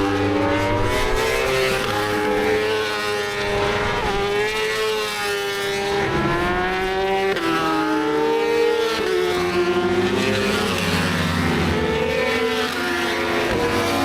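Racing motorcycles on track, several engines at once, their pitch repeatedly falling and rising as the bikes slow and accelerate.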